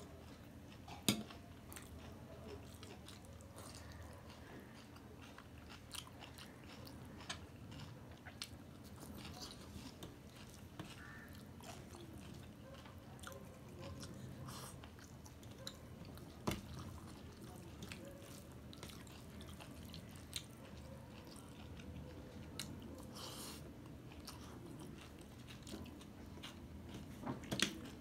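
Close-miked chewing and mouth sounds of a man eating rice and duck curry by hand from a steel plate, with scattered sharp clicks. The loudest click comes about a second in, as a steel bowl is tipped out over the plate.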